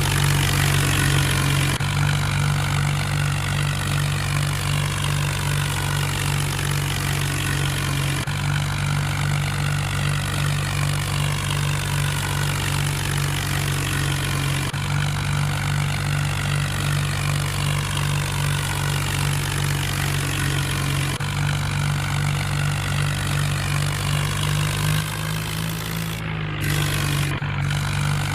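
Mahindra tractor's diesel engine running steadily under load, a loud continuous hum with a slight change in tone every few seconds.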